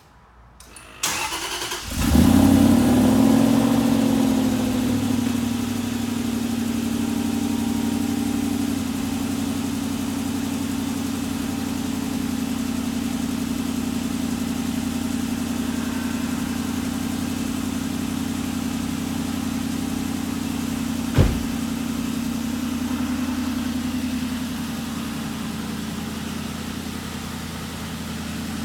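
Aston Martin Vantage engine cold-starting: the starter cranks briefly, the engine catches with a rev flare about two seconds in, then settles into a steady fast cold idle that steps down a little twice as it warms. A single sharp thump cuts through the idle about two-thirds of the way in.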